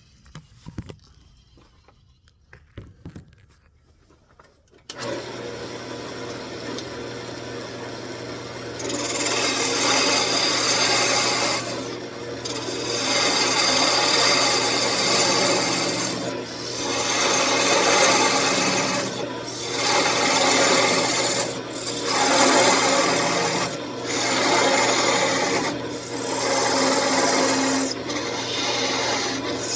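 A few faint clicks, then a wood lathe's motor starts about five seconds in with a steady hum. A few seconds later a turning tool begins cutting the spinning wood, a rasping hiss that swells and fades in passes about every two seconds.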